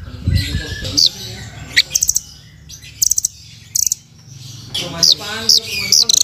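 Velvet-fronted nuthatch (rambatan) calling: a series of short, sharp, high chirps mixed with brief bursts of rapid trilled notes.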